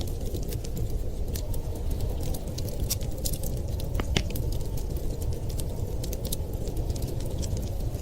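Wood fire crackling, with frequent sharp pops and snaps, over a steady low rumble of snowstorm wind.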